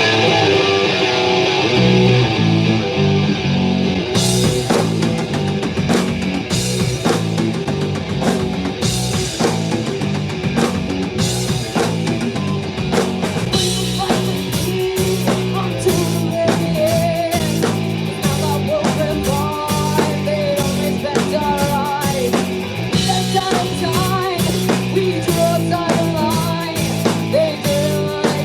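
Rock band playing a song live at full volume: a drum kit keeping a steady beat, with bass and electric guitar. About halfway through, a melodic line comes in over the top.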